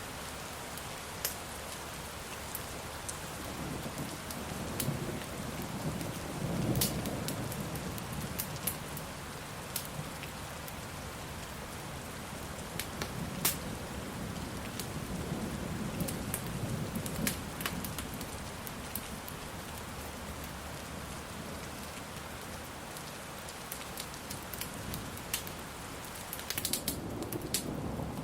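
Steady rain with low thunder rolling in and swelling about five seconds in, again midway, and near the end, over scattered sharp pops from a crackling wood fire.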